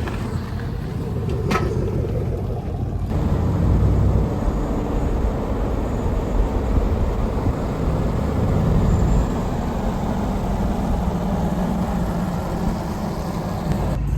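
A truck engine running with a steady low rumble. There is a sharp click about a second and a half in.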